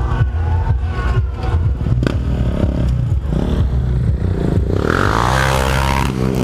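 Stunt motorcycle engine running and revving, with repeated sharp clicks and knocks; it revs harder about five seconds in.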